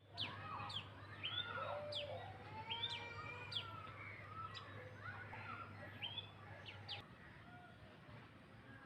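Several small birds chirping at once: quick, sharp, falling chirps repeat about once or twice a second over softer curving whistles, busiest in the first few seconds. A low steady hum underneath stops about seven seconds in.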